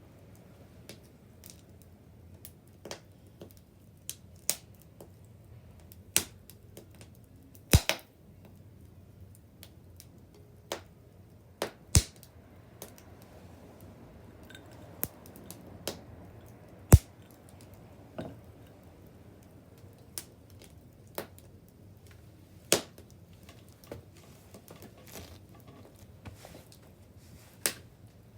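Wood bonfire crackling: irregular sharp pops and snaps, a few of them much louder, over a quiet steady background.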